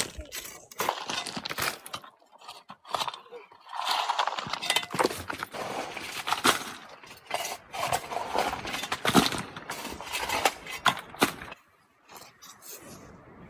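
Irregular clinks and knocks of hard objects being handled, with a brief lull near the end.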